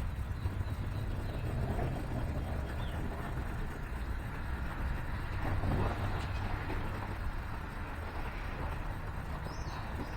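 Steady low rumble of distant city traffic, with a couple of faint small-bird chirps, one short falling chirp near the end.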